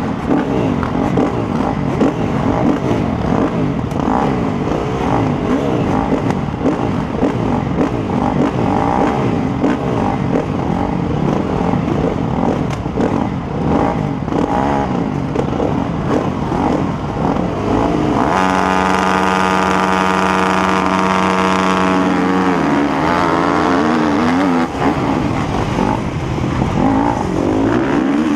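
Motocross bike engines running and revving, several at once with pitches rising and falling over one another. About two-thirds of the way in, one engine is held at a steady high rev for several seconds, then blipped up and down.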